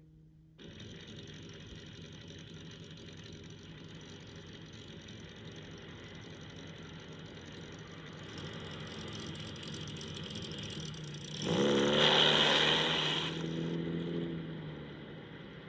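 Aston Martin DB2/4 sports car engine running as the car drives along. It cuts in just after the start, slowly grows louder, then revs up with a rising pitch about eleven seconds in, the loudest part, before easing off near the end.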